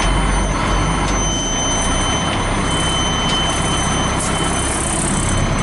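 Cab noise inside a Pierce fire engine under way: a steady engine and road rumble with a thin, steady high whine.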